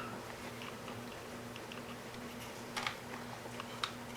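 A few faint, sharp clicks and light taps of small parts being handled, most of them a little after the middle, over a low steady electrical hum.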